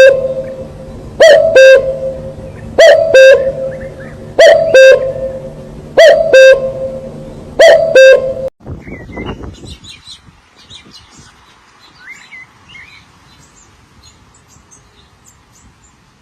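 A bird repeating a loud two-note call about every second and a half, six times, which then stops. Faint, high, scattered chirps of small birds follow.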